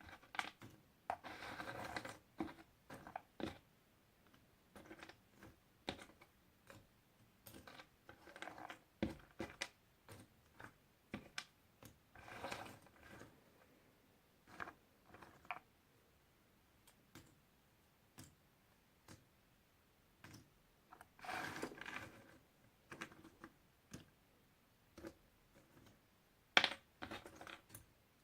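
Puzzle pieces being handled: irregular light clicks and taps, with short bursts of rustling and shuffling every few seconds and one sharper click near the end.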